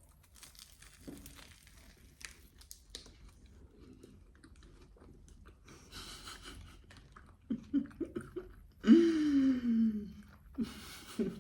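Close-up chewing and crunching of a flaky pistachio croissant, with soft crackles and mouth sounds. Near the end, a brief voiced sound that falls in pitch is the loudest thing.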